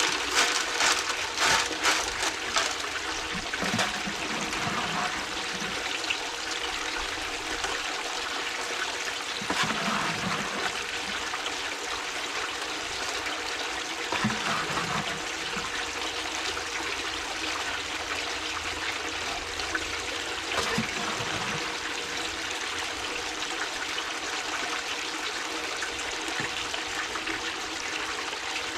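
Water running steadily, with splashing and small rattles in the first few seconds.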